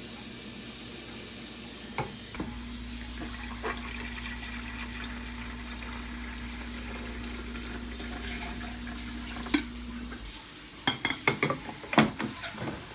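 Kitchen cold-water tap running into the sink as a coffee pot is filled. A steady low hum runs through the middle and stops about ten seconds in, followed by several sharp clattering knocks near the end.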